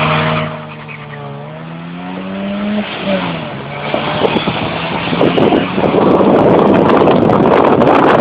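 Car engines running, one engine's note climbing slowly and then dropping off about three seconds in. From about four seconds in, a loud rushing roar of vehicles accelerating builds up and holds.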